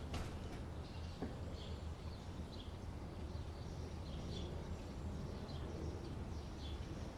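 Faint short bird chirps, repeating every half second or so, over a steady low background hum.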